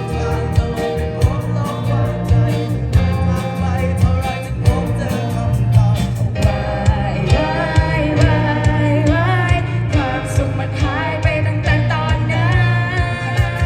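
A secondary-school rock band playing a song with a steady drum beat, bass and guitar; a singer's voice comes in about halfway through.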